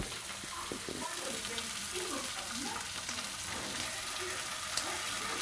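Egg and bacon frying in butter in a pan, a steady sizzle.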